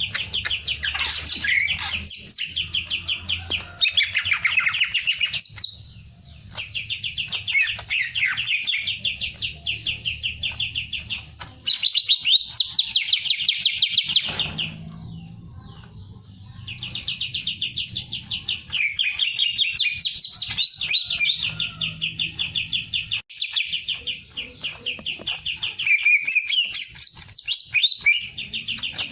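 A songbird singing energetically in long, fast trills of rapidly repeated notes. Each bout lasts several seconds, with short breaks between bouts.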